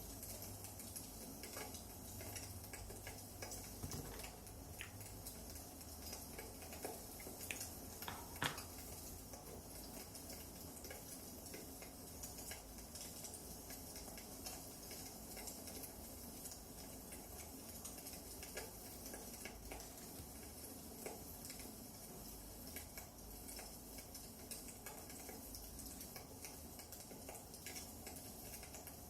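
Firewood burning in a fireplace, crackling: a soft steady hiss with scattered small pops and snaps, one louder pop about eight seconds in.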